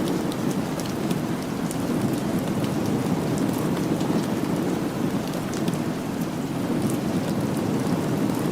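Steady rain, a continuous dense hiss with its weight low and full, dotted with scattered sharp ticks.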